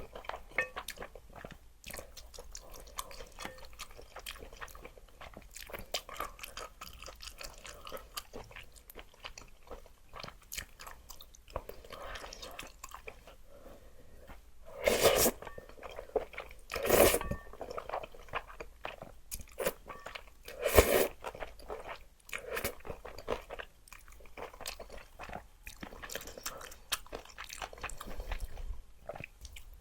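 Close-miked eating of spicy luosifen (river snail rice noodles): continuous chewing and crunching with many small mouth clicks, and a few louder noodle slurps around the middle.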